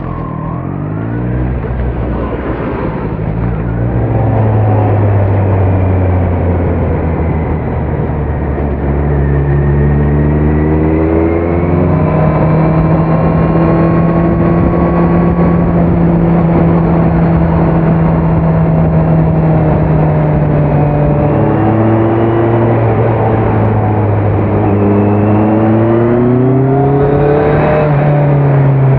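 2018 Kawasaki Z900's inline-four engine running through a Leo Vince muffler on stock headers with no dB killer, heard from the rider's seat while under way. The pitch climbs in steps as it accelerates through the gears, holds steady for several seconds, drops, then rises again near the end.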